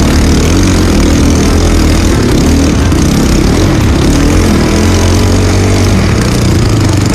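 Trail motorcycle engine running loudly and continuously as the bike is ridden.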